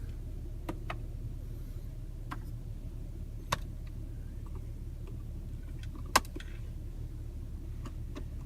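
A few sharp clicks of the overhead light switches on a car's roof console being pressed, the loudest about six seconds in, over a steady low hum inside the cabin.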